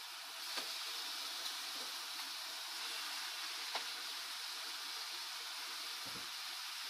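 Chicken pieces sizzling in hot oil in a frying pan, a steady hiss that gets louder about half a second in as more pieces go in. A couple of light clicks of tongs against the pan, and a soft thump near the end.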